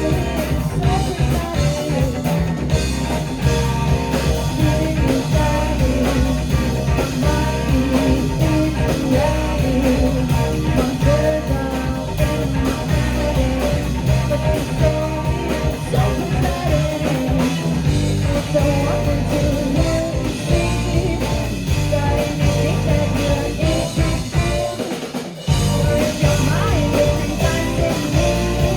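A rock band playing live, with guitar, drum kit and a sung vocal. About 25 seconds in, the bass end drops out for about a second, then the full band comes back in.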